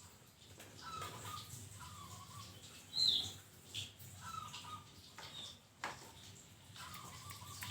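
Zebra dove (perkutut) cooing in short repeated phrases, several times over. A brief, louder high-pitched chirp comes about three seconds in, and a sharp click near the end.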